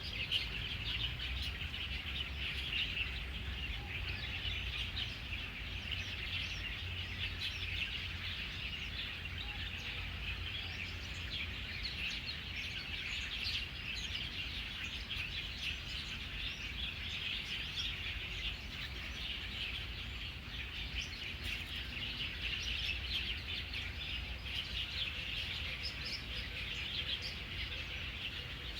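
Many small birds chirping and singing in a tree, a dense overlapping chorus of short high calls that never lets up. A steady low rumble runs underneath.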